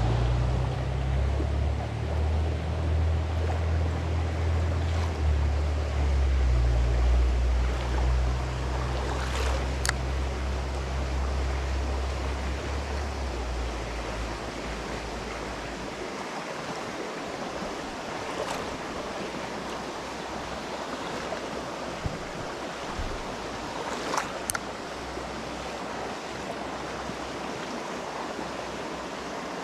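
Wind buffeting the microphone as a heavy low rumble for about the first half, then dying away, over a steady rush of flowing river water.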